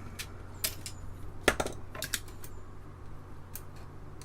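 Sharp plastic and metal clicks and clacks of Apple II Plus keyboard parts, the keycaps and the metal space-bar stabilizer bar, being handled and pressed into place. There are about six clicks in the first two seconds, the loudest about a second and a half in, then a faint steady hum.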